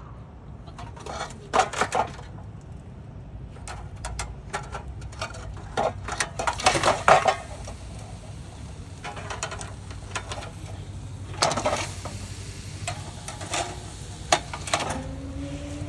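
Intermittent clinks and clatter of cookware and utensils being handled, in irregular clusters of sharp knocks.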